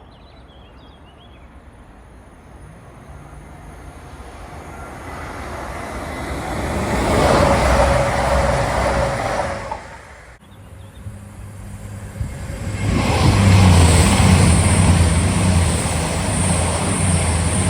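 Class 220 Voyager diesel multiple unit passing at speed, its roar building to a peak and cutting off suddenly about ten seconds in. A few seconds later a second loud diesel train passage begins, with a steady engine drone under the rush of the wheels.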